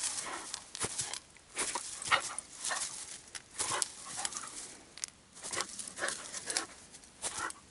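Siberian husky puppy breathing noisily close by: a string of short, uneven huffs, about one or two a second.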